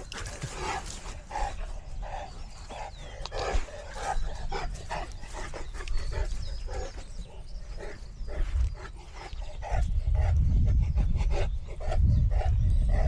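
A dog panting hard, in quick regular breaths about two a second, after running about on a search game; it is getting tired. A loud low rumble comes in about ten seconds in and runs over the breathing.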